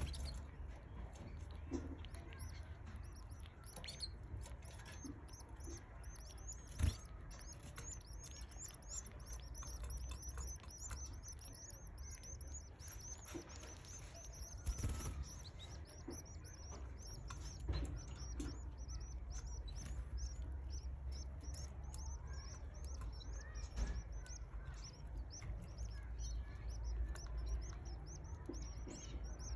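Canary chicks cheeping continuously, a rapid run of high, thin peeps. A low steady hum lies underneath, with a single sharp knock about seven seconds in.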